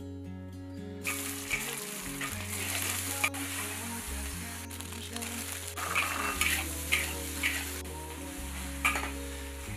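Food sizzling in hot oil in a wok, starting about a second in, with a metal spatula scraping and stirring the pan several times, over soft background music.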